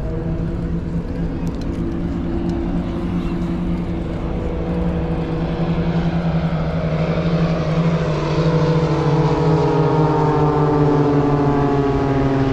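An airshow aircraft's engine droning overhead, growing louder and then sliding down in pitch as it passes.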